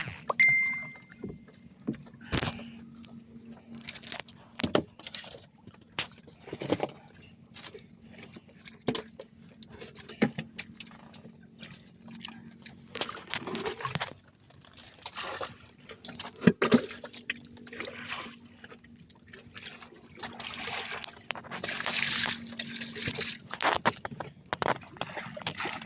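Water splashing and sloshing around a small fishing boat, with irregular knocks and clatter on board while the net is worked. A faint steady low hum runs underneath, and the splashing grows louder and denser in the last few seconds.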